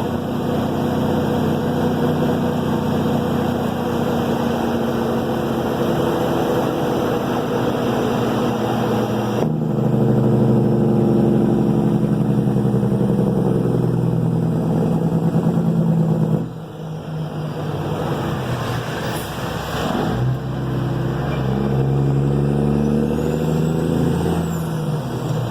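Caterpillar 3406E inline-six diesel in a Kenworth W900, running through 8-inch straight pipes under way. Its note steps up and down several times as it pulls. It drops suddenly about 16 seconds in, then builds again.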